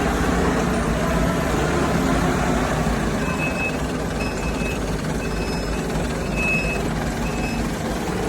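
Heavy vehicle engine running steadily while a reversing alarm sounds five short, high beeps about a second apart, starting about three seconds in.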